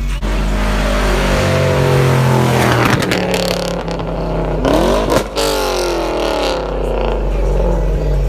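Car engine revving, its pitch falling away at first, then a quick rev up about five seconds in that drops off again over a steady low rumble.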